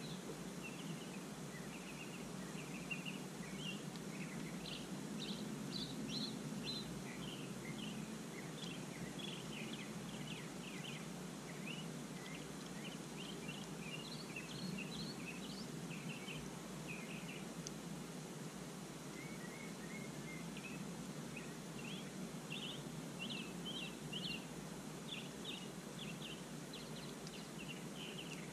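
Small birds chirping in quick runs of short high notes, with a short lull just past the middle, over a steady hiss of outdoor background noise.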